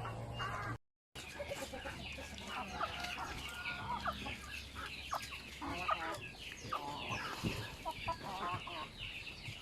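A flock of native chickens clucking and calling, many short overlapping calls at once. It starts after a brief silent break about a second in.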